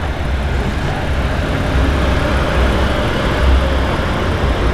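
Steady car engine noise from a crowd of vehicles, a constant motor drone over a deep uneven rumble.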